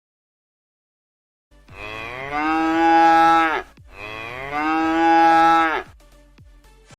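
A cow mooing twice: two long calls of about two seconds each, one right after the other.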